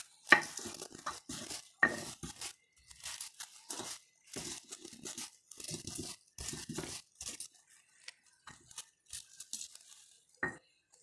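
Stone pestle crushing and grinding fresh red and green chillies in a stone mortar (ulekan on a cobek), coarsely: a rough crunching stroke about twice a second, stopping near the end.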